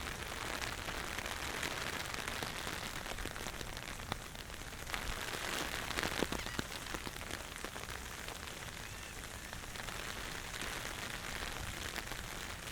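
Steady rain falling, with scattered drops tapping close by; a run of louder, closer taps about five to seven seconds in.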